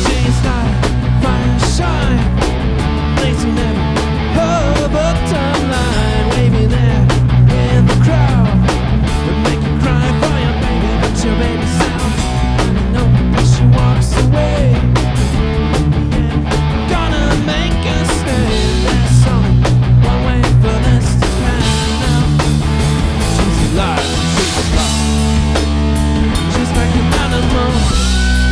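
A rock band playing at full volume: two electric guitars, electric bass and a drum kit, with steady drum hits and bending guitar notes.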